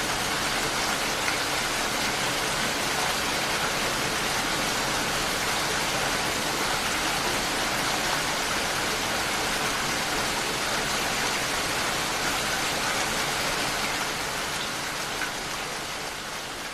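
Steady, heavy rain falling in a dense, even hiss of drops, fading out near the end.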